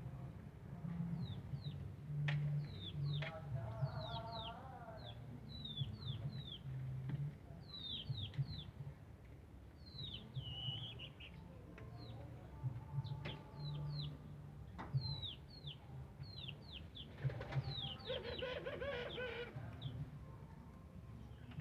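Small birds chirping: many short, high chirps that slide downward, coming in quick runs throughout, over a low uneven hum.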